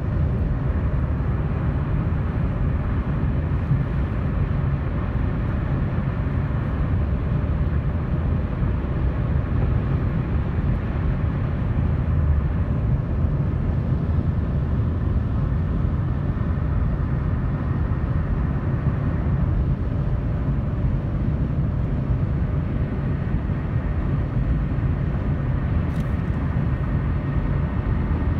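Steady low rumble of road traffic noise, even throughout with no single pass-by standing out.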